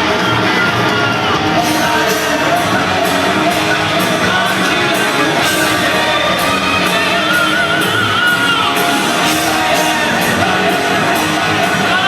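Hard rock band playing live in an arena: electric guitars and drums, with a high, yelled singing voice over the top. Evenly spaced cymbal hits, about two a second, come in about a second and a half in.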